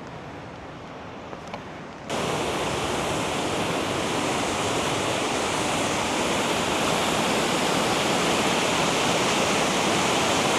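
Waterfall rushing: a steady, even roar of falling water. It comes in suddenly and much louder about two seconds in, after a quieter rush of water.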